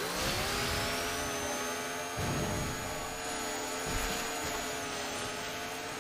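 Chainsaw motor running, revving up over the first second and then holding a steady high pitch with a thin whine above it. A couple of short low thuds come in under it partway through.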